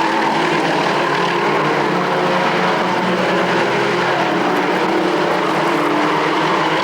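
Engines of a field of race trucks running on a short oval, a steady, dense, unbroken engine drone with no single truck passing out of it.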